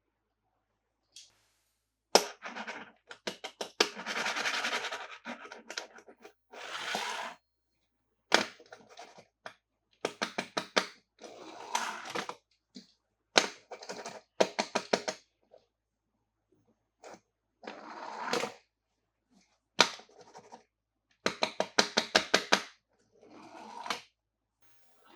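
Hands unboxing toy cars: bursts of rapid clicks and rustling from plastic packaging and toys being handled, about a dozen separate bursts with short silent gaps between them.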